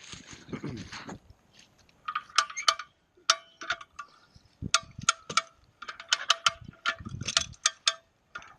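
Come-along hand winch being cranked: its ratchet pawl clicks in quick metallic runs with each stroke of the handle, after a short rustle in the first second.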